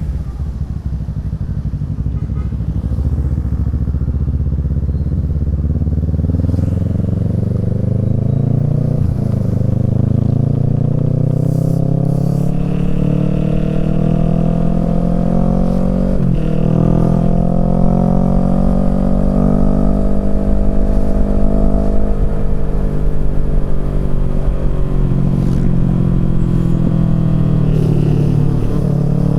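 Kawasaki Z650 parallel-twin engine through a Yoshimura Alpha exhaust, pulling up through the gears under load. There are upshifts about 9 and 16 seconds in, after which the engine holds its pitch, and another shift near the end.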